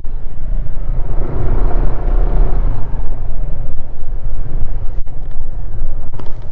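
Loud, steady low rumble of a running vehicle, with wind noise on the microphone.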